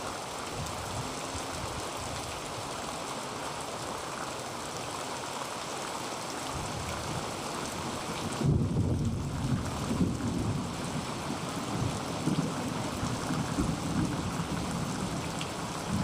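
Heavy rain falling steadily on a tin roof. About halfway through, a low, uneven rumble of thunder comes in under the rain and keeps rolling.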